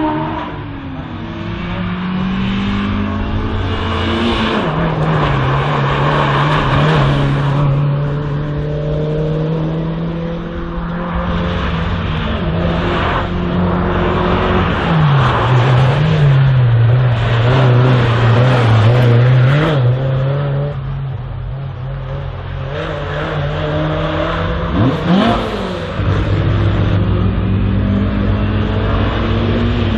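Race car engine driven hard through an autoslalom course, its pitch rising and dropping over and over as the driver accelerates, lifts and changes gear.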